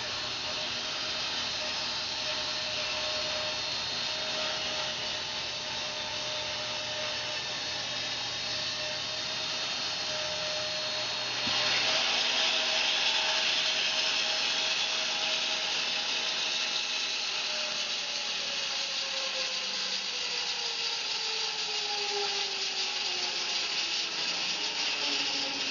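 Home-built bandsaw mill sawing through a fir log with a steady rasping hiss. It grows louder about eleven seconds in, and a whining tone drops steadily in pitch over the last several seconds.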